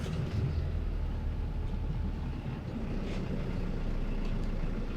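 Shuttle bus driving, heard from inside: a steady low engine and road rumble.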